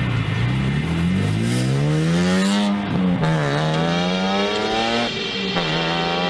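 BMW car engine accelerating hard, its pitch climbing and then dropping sharply twice, about three and five seconds in, as it shifts up through the gears.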